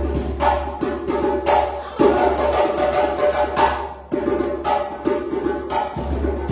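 West African djembe drumming: fast, interlocking hand strokes on djembes in a steady rhythm.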